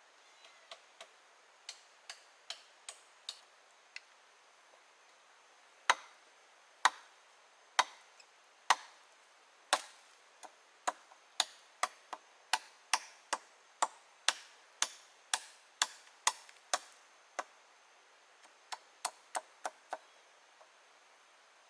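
A blade chopping with a run of sharp strikes: a few light ones first, then loud single chops about a second apart, quickening to about two a second, and a short quick flurry near the end.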